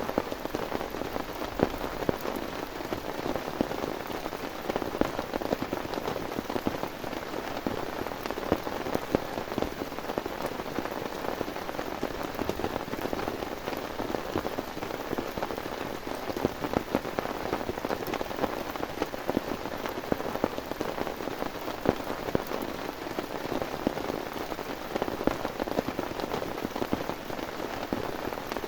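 Heavy, steady rain falling, with many individual drops striking a nearby surface as a dense stream of sharp taps.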